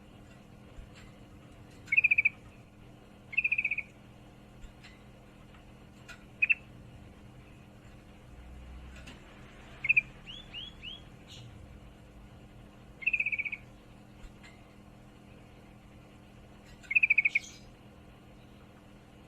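Female yellow-vented bulbul (trucukan) giving short, rapid chattering calls in about six bursts a few seconds apart, with a few rising notes in between. This is the call of a female in breeding condition calling a male. A faint steady hum runs underneath.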